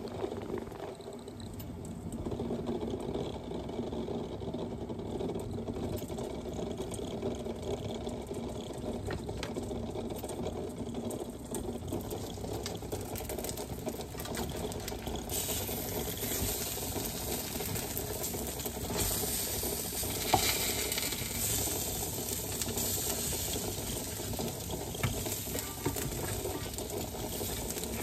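Breaded fish fillets sizzling as they fry in a pan, with light clinks of utensils. About halfway through, a louder, brighter hiss joins in.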